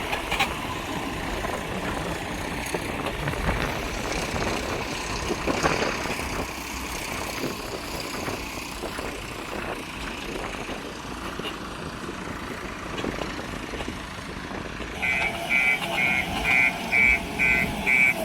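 A heavy vehicle's engine running steadily. About three-quarters of the way in, a repeating electronic beep starts, about two beeps a second, and becomes the loudest sound.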